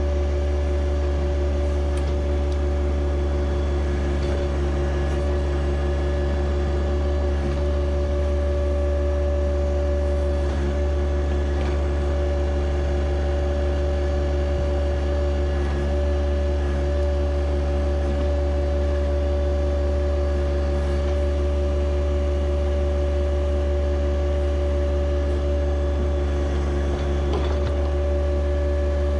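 John Deere 1025R compact tractor's three-cylinder diesel engine running steadily at constant speed, a continuous drone with a steady whine over it and a few faint clicks.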